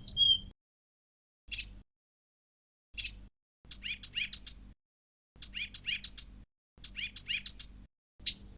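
Blyth's reed warbler song fragments, each cut out and repeated with silence between: a short sharp high note twice, then a phrase of quick falling notes played three times, then another short note near the end.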